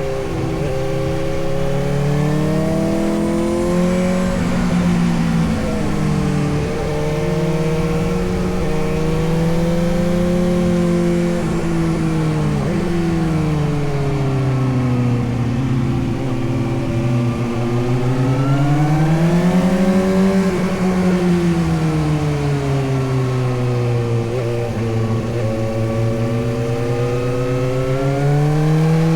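Suzuki GSX-S750's inline-four engine running under way, its revs rising and falling again and again as the throttle is opened and eased off.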